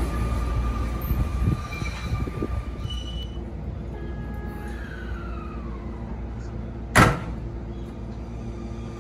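Sotetsu electric train running out of the station, its wheels and motors loud at first, then fading to the steady hum of a train standing at the platform. A single loud sharp bang about seven seconds in.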